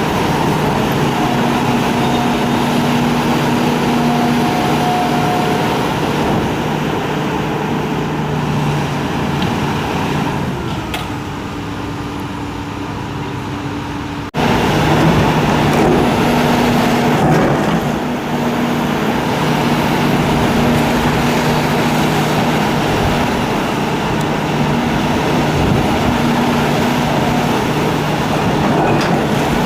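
Diesel engine of a Hitachi excavator running steadily under load. Around ten seconds in it eases off and drops in pitch, then it cuts off abruptly midway and comes back at full, louder running.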